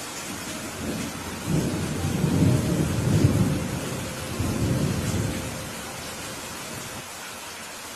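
Steady rain with a rolling rumble of thunder that swells about a second and a half in, then dies away a few seconds later.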